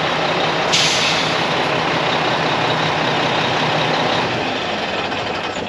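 Diesel engine of a 2001 Mack CH612 day cab tractor running, with a sudden sharp hiss of released air about a second in that slowly fades. The engine sound eases off somewhat near the end.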